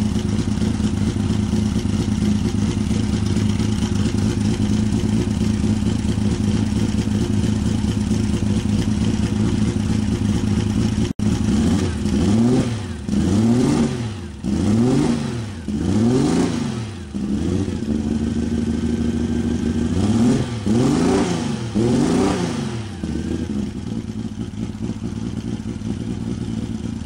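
Turbocharged BMW S38 straight-six in an E30 idling steadily, then revved in a string of quick throttle blips, each rising and falling back. A short steady hold and a few more blips follow before it settles back to idle.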